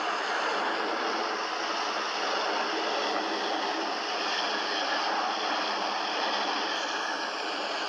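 A train passing on the track: a steady, even rolling noise that holds at one level throughout.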